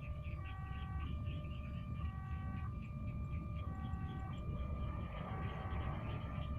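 Electronic two-tone warning signal of a railway level crossing, alternating steadily between a lower and a higher tone about every 0.8 s over a low rumble, with a brief rush of broader noise about five seconds in.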